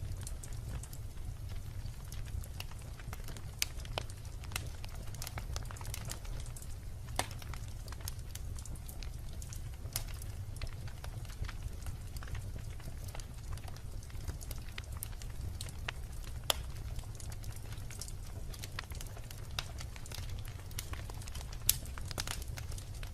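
Wood fire of burning logs in a fireplace, crackling with irregular sharp pops over a steady low rumble of the flames.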